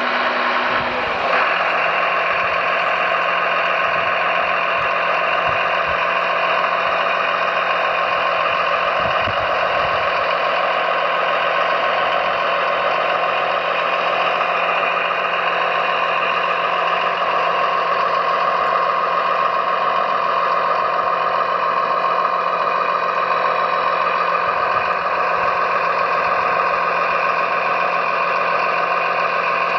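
Radio-controlled heavy construction vehicles running: a steady, unbroken mechanical drone with a constant whine on top.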